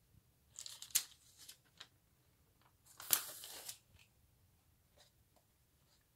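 Photo album pages being handled and turned, rustling and crackling twice: briefly about a second in, and again around three seconds in.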